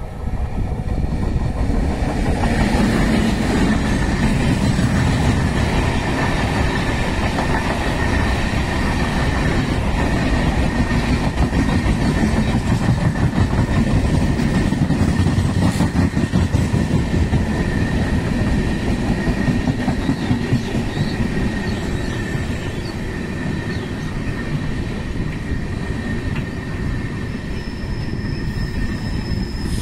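Passenger train coaches rolling past close by: steady rumble and clatter of steel wheels on the rails, with a thin high whine running through it.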